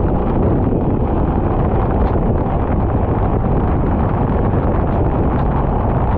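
Kart running on track, heard from onboard: a loud, steady rush of wind buffeting the microphone over the engine noise.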